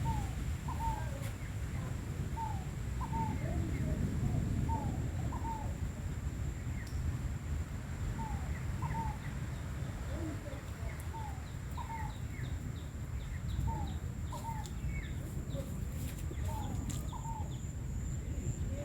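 Wind buffeting the microphone with a low, uneven rumble as a rain front approaches. A bird calls over it in short, repeated chirps, about one or two a second.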